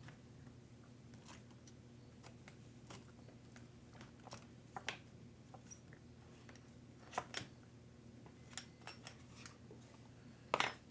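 Scattered small clicks and taps of tools and small parts being handled during RC truck repair work, with a louder clack near the end, over a steady low hum.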